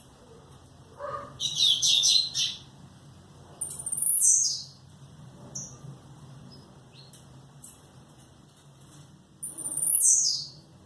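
Pet songbirds calling: a quick run of chirps about a second and a half in, then two loud whistled calls that slide downward in pitch, about four seconds in and again near the end, with a few faint short notes between.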